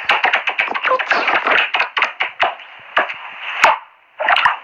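Rapid run of sharp taps, several a second, with a brief pause about four seconds in.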